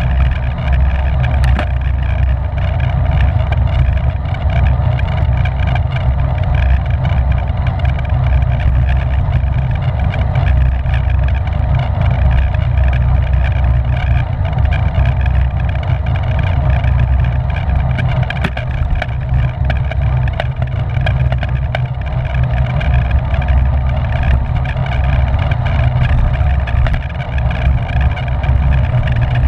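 Wind rushing over the microphone of a racing bicycle's camera at speed: a loud, steady low rumble.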